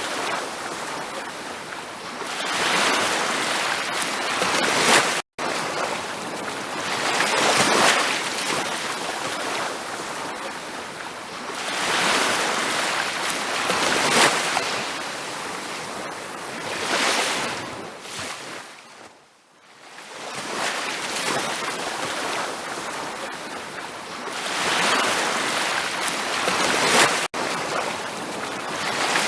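Ocean surf breaking and washing up a beach, swelling and easing every few seconds. There is a quieter lull past the middle, and the sound cuts out for an instant about five seconds in.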